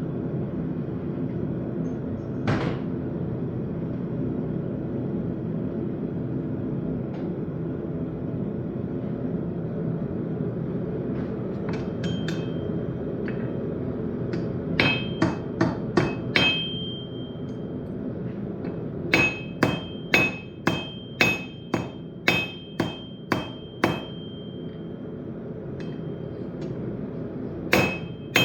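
Hand hammer striking hot steel on an anvil in runs of blows, about two a second, with a high ring after many strikes, as a railroad knife is forged. A steady low roar, the forge running, goes on underneath.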